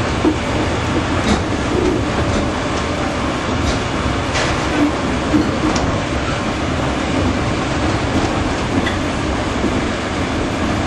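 Narrow-gauge train on the move, heard from a carriage behind a diesel locomotive: a steady rumble of engine and wheels, with a few sharp clicks as the wheels cross rail joints.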